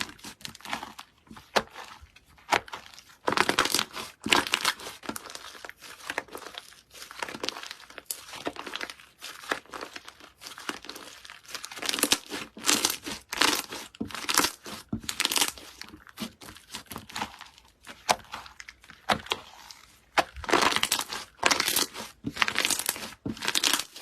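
Slime being pressed and squeezed by hand, giving off crackling, popping noises in repeated bursts.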